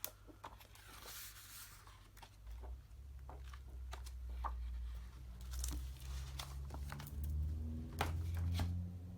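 Books and their glossy paper pages being handled: scattered rustles and light knocks. A low rumble of handling on the table starts about two and a half seconds in.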